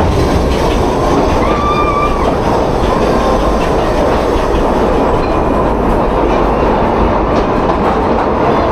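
Steam train carriages running on the rails, heard from on board: a loud, steady clattering rumble of wheels on track, with a brief faint high tone about two seconds in.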